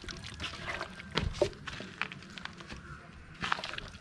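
Scattered light knocks and clicks of kitchen utensils and a bowl being handled while a marinade is prepared, with one louder knock about a second in.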